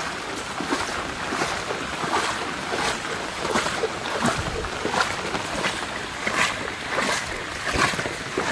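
Floodwater rushing and splashing: a steady noise with irregular small splashes.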